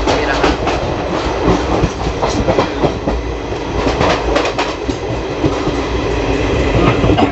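Passenger train coach running: a loud, steady rumble of wheels on rail, with irregular clicks and rattles over the rail joints. It is heard close to a coach door that does not close fully.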